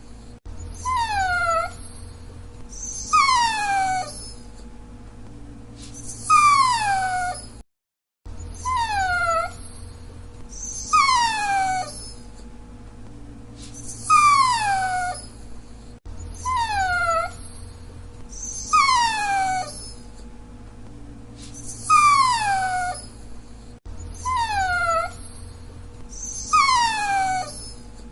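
Dachshund whining: short high whines, each falling in pitch, repeated about every two to three seconds, with a brief break in the sound about eight seconds in.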